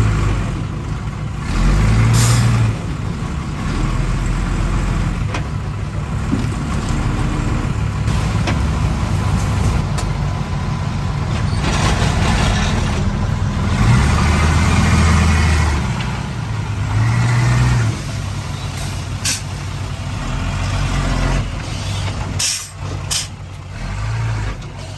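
Heavy diesel machinery at work: engines running and changing speed, with a few brief high hisses such as a truck's air brakes release.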